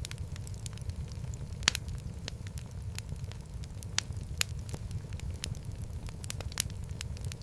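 Fireplace fire crackling: irregular sharp pops and snaps over a steady low rumble of the flames, with the loudest pop coming just under two seconds in.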